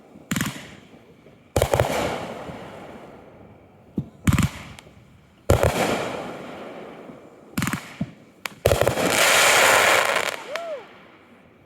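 Fireworks going off: a series of sharp booms, about eight in all, each trailing off in a long rolling echo. Near the end comes a loud, sustained hiss of about two seconds.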